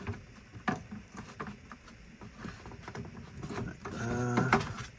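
Irregular small plastic clicks and knocks of batteries being handled and fitted into a toy RC car's battery compartment, including a 9-volt battery being clicked onto its snap connector.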